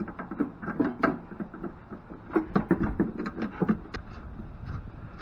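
Irregular clusters of small clicks and knocks as electrical wires and metal parts are handled and snipped with cutters: one burst in the first second, a denser one from about the middle.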